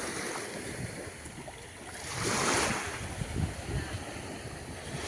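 Small waves washing up onto a sandy beach, one wave surging in loudest about two seconds in, with wind buffeting the microphone.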